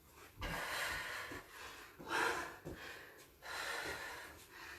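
A woman breathing hard during a bodyweight exercise, three long, forceful breaths in a row, with a few soft thuds.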